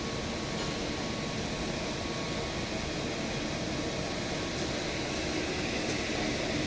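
EMC Flexy 1350 wide-belt sanding machine (cross belt, superfinishing and cross belt heads) running steadily on wood: an even mechanical noise with a faint thin whine.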